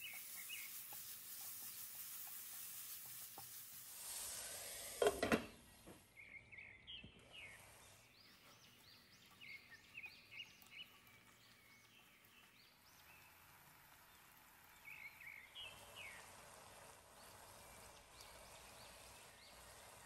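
Diced chicken and onions sizzling in a nonstick frying pan while being stirred and scraped with a plastic slotted spatula. A couple of loud sharp knocks of the spatula against the pan come about five seconds in, and short high squeaks are scattered through the middle.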